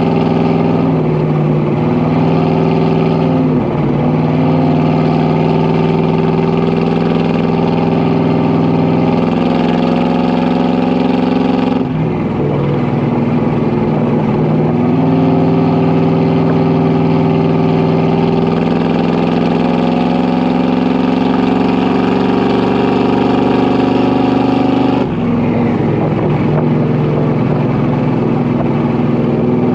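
Exhaust of a Ford 400 V8 under way on the road, running steadily with a deep, even note. About twelve seconds in the pitch dips and then climbs slowly, and about twenty-five seconds in the note changes abruptly.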